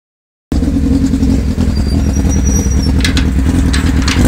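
Yamaha FZS600 Fazer's inline-four engine running steadily with no exhaust silencer, only the bare header pipes open, so the exhaust is loud and raw. A few sharp clicks come over it near the end.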